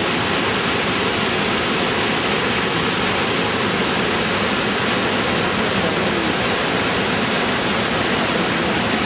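Steady rush of the Zambezi plunging over Victoria Falls: an even, unbroken roar of falling water.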